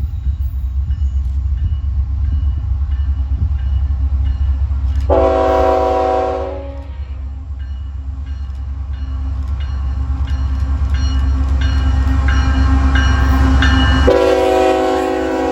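CN diesel locomotive rumbling with a multi-tone air horn. One blast sounds about five seconds in, lasting under two seconds, and another starts near the end.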